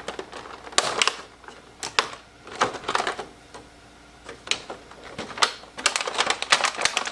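Packaging being opened and handled by hand: scattered clicks and crinkles, with a denser run of crackling near the end.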